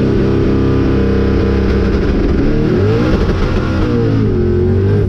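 Boosted no-prep drag car's engine running hard at high revs, the pitch climbing and dipping about three seconds in, then cut off suddenly.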